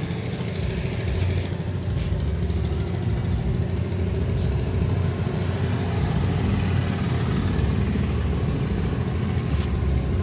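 Steady low engine drone, with a couple of faint sharp clicks.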